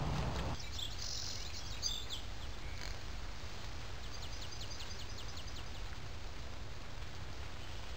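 Bird calls: a few high chirps about a second in, then a quick run of about ten short, high, downward notes about four seconds in, over a faint low steady hum.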